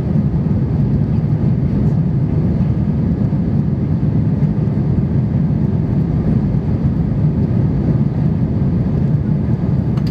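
Cabin noise inside an Airbus A320 jet airliner during takeoff: a steady, loud, low drone of the jet engines and airflow.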